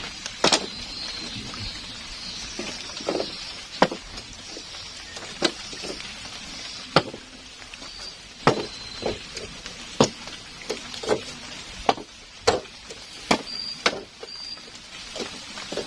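Heavy rain falling steadily, with large drops landing close by as sharp, irregular taps about once a second.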